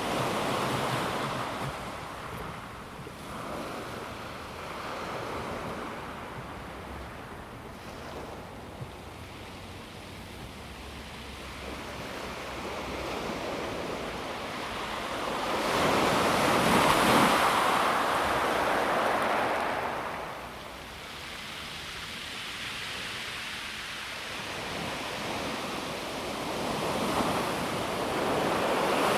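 Calm sea waves washing in and out over a pebble beach: a hiss of water that swells and fades, with the biggest surge about halfway through and another building near the end.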